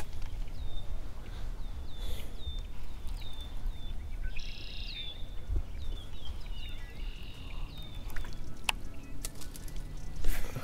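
A small bird chirping over and over, short high chirps that drop in pitch, about two or three a second, over a low rumble of wind on the microphone. Two sharp clicks come near the end.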